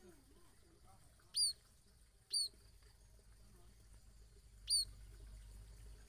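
A bird giving three short, high-pitched peeps, each a quick rise and fall in pitch, spaced irregularly: about one and a half seconds in, a second later, and again over two seconds after that.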